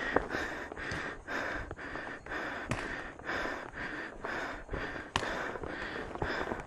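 A climber's heavy, rhythmic panting from the exertion of a steep uphill trail, quick even breaths about two a second. A few sharp clicks sound among the breaths.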